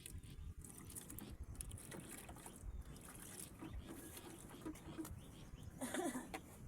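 Rain pattering, with many small scattered drips and an uneven low rumble underneath.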